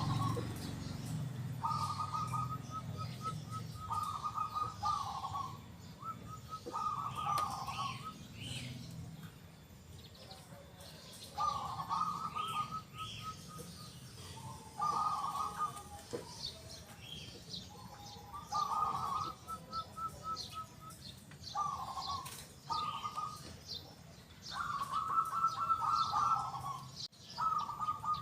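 Zebra dove cooing: a phrase every two to three seconds, each a quick run of short clipped notes followed by lower, longer coos. Faint high chirps of other small birds sound in the background.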